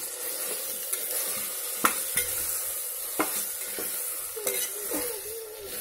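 Chicken pieces frying in hot oil in an aluminium pressure cooker, with a steady sizzle. A metal spoon stirs them, scraping and knocking against the pot several times.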